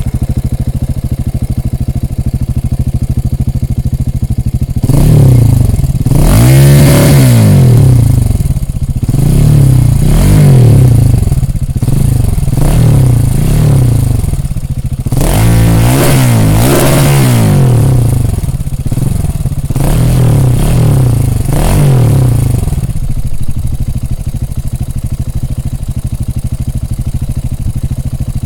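KTM 690 Enduro R's single-cylinder engine through a Remus aftermarket exhaust, idling, then blipped up and down about ten times before settling back to idle near the end.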